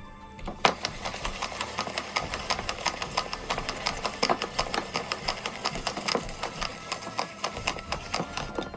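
Kitchen food chopper running on chopped vegetables to make a masala paste, with a fast, irregular clatter of many clicks a second as the pieces are chopped.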